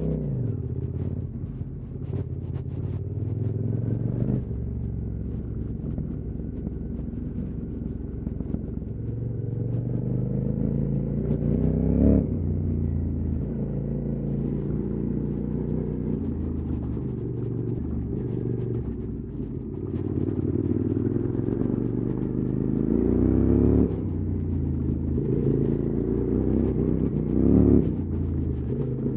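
QJ Motor SVT650X motorcycle engine running through an Arrow slip-on exhaust while riding, its pitch climbing and falling several times as the throttle is opened and closed. It revs highest about twelve seconds in and twice near the end, each time dropping back sharply.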